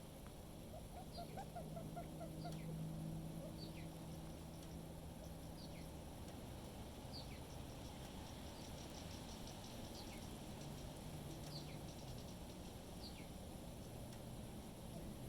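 Small birds calling: short high notes sliding downward, repeated roughly once a second, with a brief rapid trill about nine seconds in. A low steady hum and wind noise sit beneath them.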